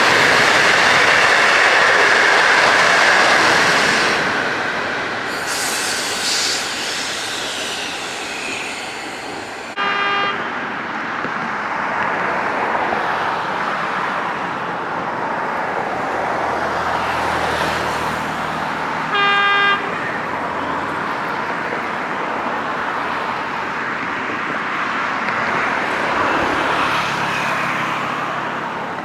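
A passenger train running past on the rails with continuous wheel-and-rail noise, loudest in the first four seconds. A locomotive horn gives two short toots, about ten and nineteen seconds in.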